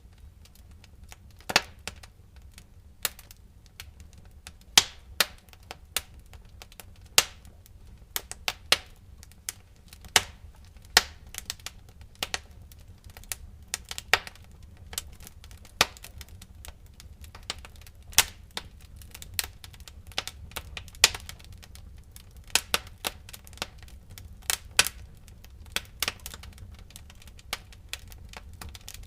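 Wood fire in a fireplace crackling: irregular sharp pops and snaps, a few of them loud, over a low steady rumble of the flames.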